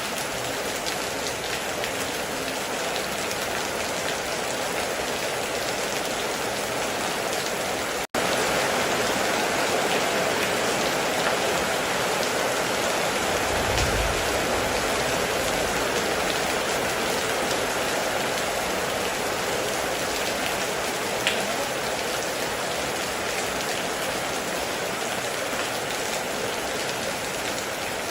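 Heavy rain falling steadily, a dense even hiss of drops. The sound cuts out for an instant about eight seconds in and comes back slightly louder, and a brief low rumble sounds around the middle.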